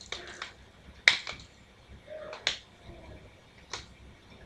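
Plastic segments of a Rubik's Twist (Rubik's Snake) puzzle clicking as they are twisted into place: about half a dozen sharp clicks at irregular intervals, the loudest about a second in.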